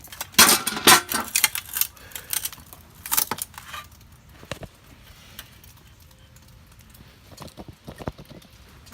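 Old aluminum window frame being pried away from the wall: a dense run of metallic clinks, rattles and scrapes for the first few seconds, then quieter, with a few scattered knocks near the end.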